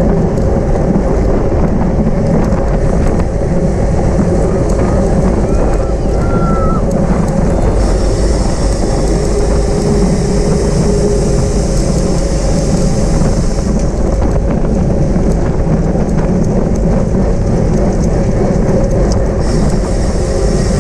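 Wind rushing over an onboard camera microphone on a bicycle at race speed, a loud, steady rush. A higher hiss joins about eight seconds in and drops away about six seconds later.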